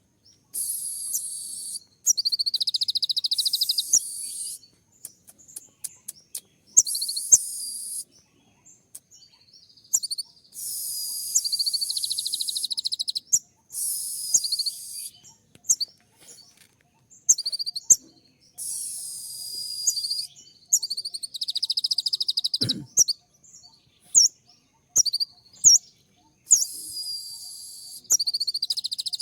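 Brown-throated sunbird (kolibri ninja) singing a fast, sharp, dense 'shooting' song: a string of high-pitched rapid trills of one to three seconds each, with short sharp chips between them.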